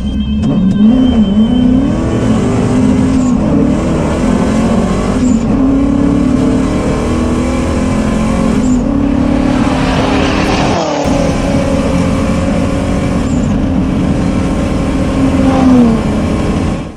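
Turbocharged BMW M62 V8 engine in a BMW E30 running hard, its note rising and falling as the throttle is worked, with a brief drop-out about eleven seconds in.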